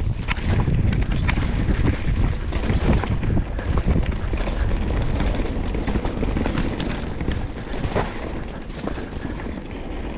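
Mountain bike descending a rough, rooty singletrack: a steady low rumble of tyres rolling over dirt, with frequent short clicks and knocks as the bike rattles over roots and stones.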